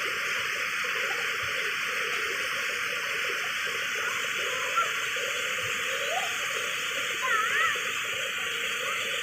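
Floodwater rushing steadily over a bridge, an even roar of water, with a few brief chirps riding over it, the loudest about seven seconds in.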